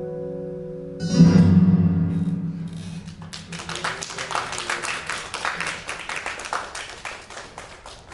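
Guitar's closing chord ringing out, with a fresh strummed chord about a second in that slowly fades, then a dense, irregular clatter of sharp claps from about three seconds in.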